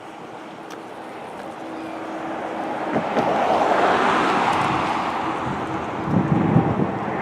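Jet airliner's engines growing louder as it passes close, peaking about four seconds in, then a deeper rumble near the end.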